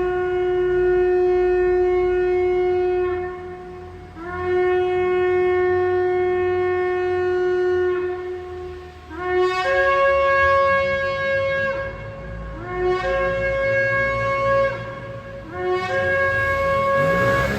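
Shofar (ram's-horn trumpet) blasts: two long, steady blasts, followed by three shorter blasts from about nine seconds in, each starting on a low note and breaking upward to a higher one.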